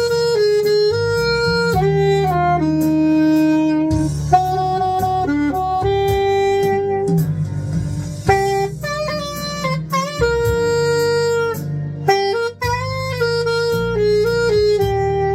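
Saxophone playing a slow ballad melody in long held notes over a backing accompaniment.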